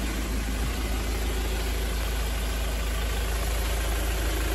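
A vehicle engine idling steadily: a low rumble with a constant hiss over it.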